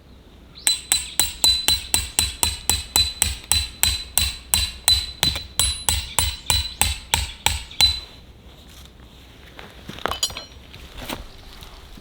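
A fast, even run of sharp knocks, about four a second, for about seven seconds. A brief metallic clink follows near the end.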